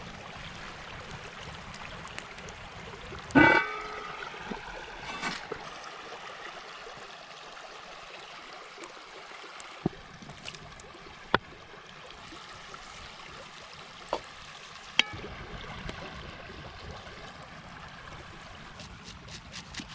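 Creek water running steadily, with a few sharp knocks and clicks from handling things at the campsite. The loudest, about three seconds in, has a brief ringing tone.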